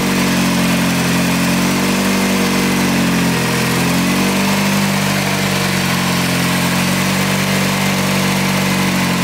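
Car engine idling steadily, with a brief sag and recovery in engine speed about three to four seconds in; it is running well.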